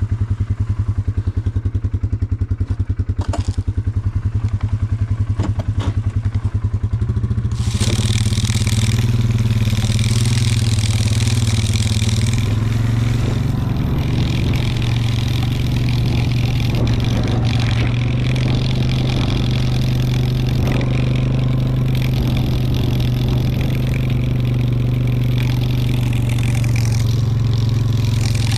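ATV (quad) engine idling with a fast, even beat, then picking up about seven seconds in and running steadily under load as the quad moves off, with a rattling hiss over the engine from then on.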